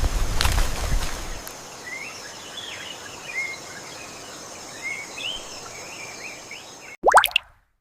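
Forest ambience: small birds chirping repeatedly over a steady insect drone. It opens with a loud rumbling rush of noise in the first second and a half, and near the end a brief loud rising sweep cuts it off.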